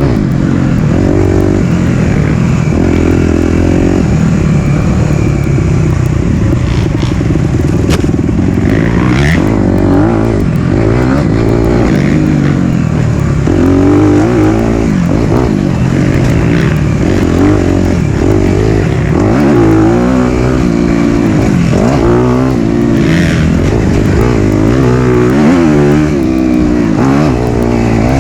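Four-stroke single-cylinder dirt bike engine, loud and close, revving up and down again and again with throttle changes while riding a trail. A sharp knock comes about eight seconds in.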